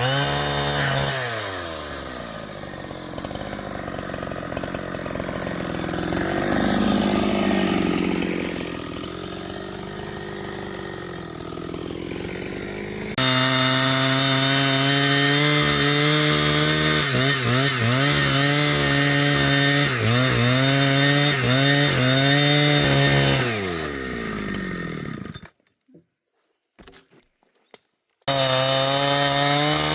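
Chainsaw running at high revs, with the pitch dipping again and again as it bogs in the wood. About a second in it drops to a lower, quieter speed for several seconds, then jumps abruptly back to full revs. It breaks off into near silence for a couple of seconds near the end before running again.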